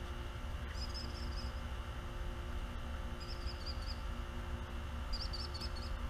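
A small bird chirping in three short, quick runs of high notes, over a steady low rumble.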